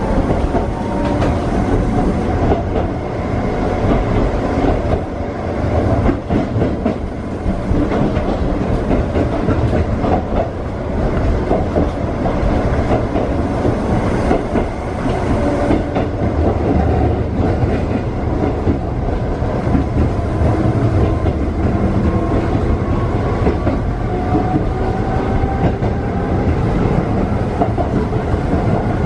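Electric train running along jointed single track, heard from inside the driver's cab: wheels clicking over rail joints over a steady rumble of running noise. A faint electric-motor whine rises in pitch near the end as the train picks up speed.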